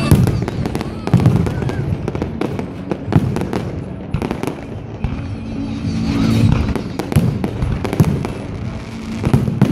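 Fireworks display: shells bursting in quick succession, a dense run of bangs and crackles with several sharper, louder reports.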